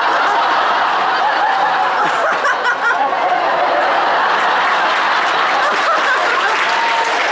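A large audience laughing together, loud and sustained, many voices blending into one continuous wash of laughter.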